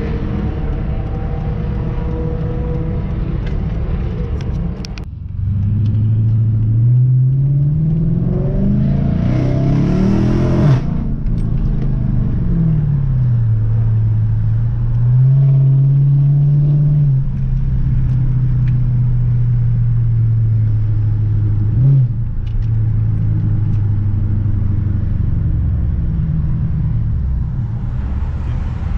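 Car engine running, then accelerating with a rising pitch for a few seconds, dropping back and settling into a steady drone.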